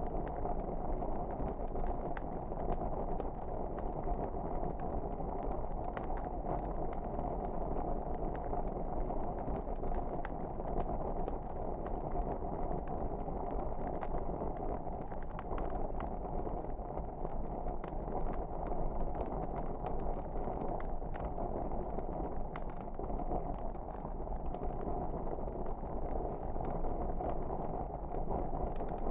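Wood fire burning in a fireplace: a steady rumble with many small crackles and pops scattered irregularly throughout.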